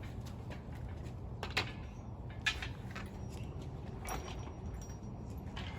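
Workshop background of a low steady hum with scattered light clicks and knocks of things being handled, the two loudest about a second and a half and two and a half seconds in.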